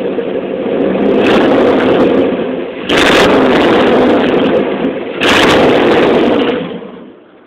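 Muffler-less exhaust of a 1996 Jeep Grand Cherokee's 5.2-litre (318) V8, still with its catalytic converter, being revved to about 2,500 rpm in several blips: it climbs in the first second, jumps louder about three seconds in and again after five seconds, then drops back toward idle near the end.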